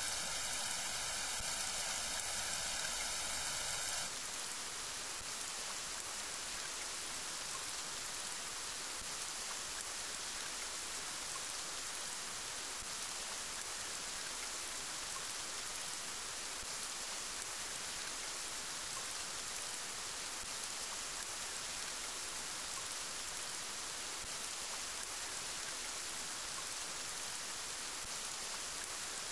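Steady rain hiss with no distinct drops standing out. About four seconds in it changes abruptly to a slightly quieter, brighter, even rain sound that holds constant.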